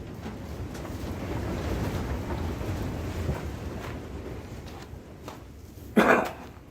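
Wind rumbling against the microphone, swelling and then easing off after about four seconds. Near the end comes one short loud sound.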